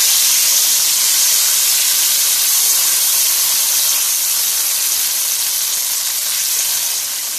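Tomato paste frying in hot oil with garlic and green chillies, a loud steady high sizzle as it is stirred around the pan; the sizzle eases a little near the end.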